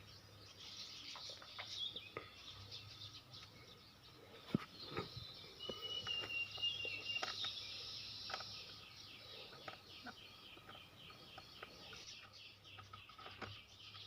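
Faint outdoor background of birds chirping, with a rapid, repeating insect-like chirring and one short whistled note about six seconds in. Scattered small clicks and knocks run through it.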